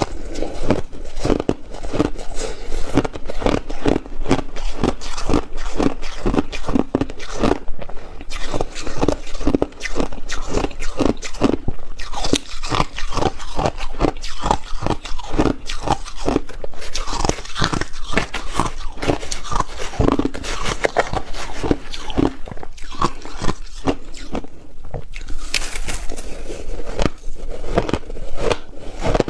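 Ice being bitten and chewed: a dense, continuous run of crunches, a few to the second.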